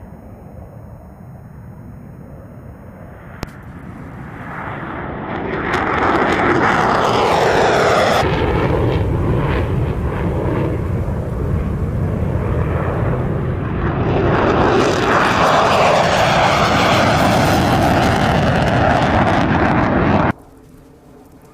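F-16 fighter jet engine noise, building up over a couple of seconds and then staying loud, with a falling whine heard twice. It cuts off abruptly shortly before the end.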